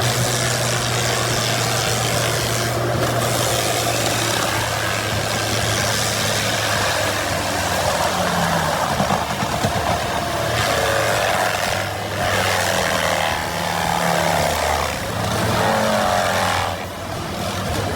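Engine of a Menzi Muck spider excavator running steadily under load while its ProMac brush mulcher head shreds palm trees. There is a low engine drone with a dense grinding, shredding noise over it, and the sound eases briefly near the end.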